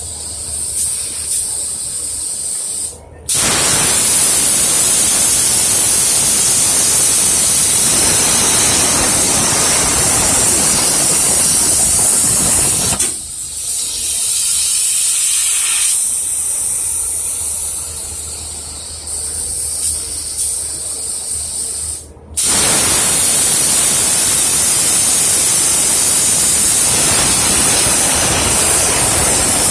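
Cutting torch on a CNC profile cutting machine giving a loud, steady hiss as it cuts. The hiss cuts off briefly twice and runs quieter for a while in the middle.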